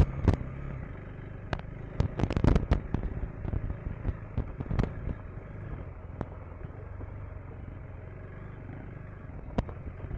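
KTM 390 Enduro R's single-cylinder engine running at low speed over river rock, with sharp knocks and clatters as the bike rolls over loose rocks. The knocks come mostly in the first three seconds, a couple more follow around the middle, and one comes near the end.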